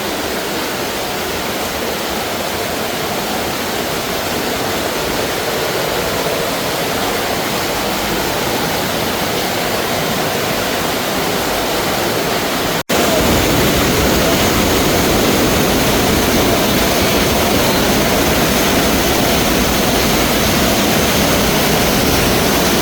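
Steady roar of a large waterfall heard from close by, Milford Sound's 151-metre Stirling Falls. It breaks off for an instant about 13 seconds in and comes back louder and deeper.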